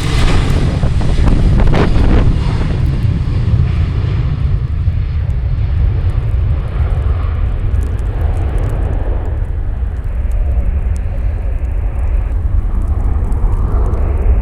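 Jet engines of a departing American Eagle regional jet at takeoff power. They are loudest in the first couple of seconds, then grow duller as the high end fades, leaving a steady heavy low rumble.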